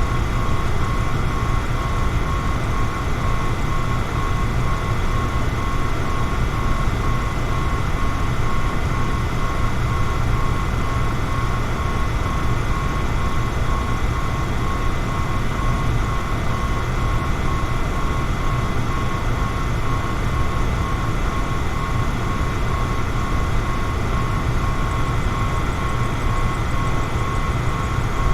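Electric fan running steadily: an even rush of air, heaviest in the low end, with a faint constant whine from the motor.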